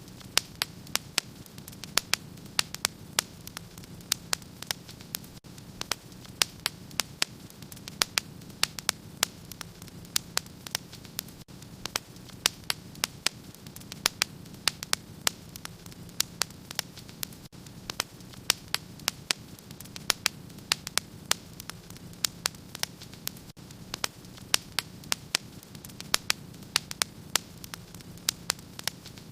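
Wood fire in a fireplace crackling: frequent sharp pops and snaps, several a second, over a steady low hiss.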